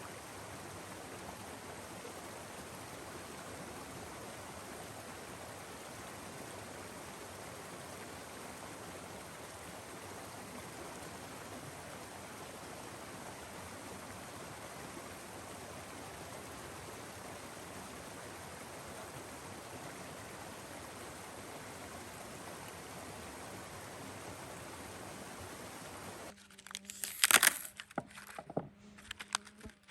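Steady rush of flowing stream water, even and unbroken. Near the end it cuts off suddenly, giving way to a few sharp knocks and clicks, one of them loud, over a low steady buzz like a flying insect.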